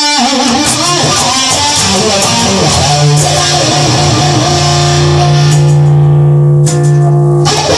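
Instrumental break in a song: guitar playing, which settles about three seconds in on a long held chord that rings on until the busy playing starts again near the end.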